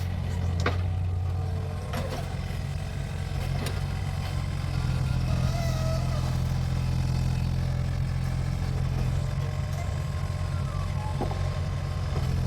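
Mini excavator's diesel engine running steadily under work, with a few sharp knocks now and then.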